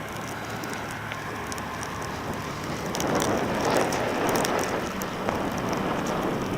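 Blizzard wind and blowing snow rushing past a moving bicycle, with scattered small ticks; the rush grows louder about three seconds in.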